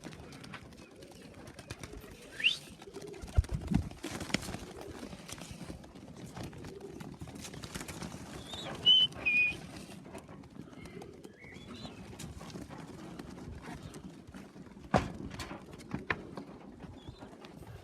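Young racing pigeons around the loft: a low cooing murmur, broken by several sharp knocks and a few short high chirps.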